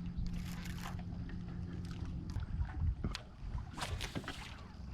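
Faint clicks and brief rustles of tackle handling from a kayak as a baitcasting reel is cast and fussed with after a backlash, over a low steady hum that stops a little under halfway.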